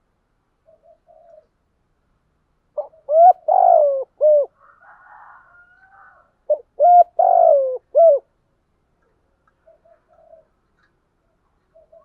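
Spotted dove cooing: two loud phrases about four seconds apart, each a few short coos around a longer note that falls in pitch, with soft, quiet coos before and after.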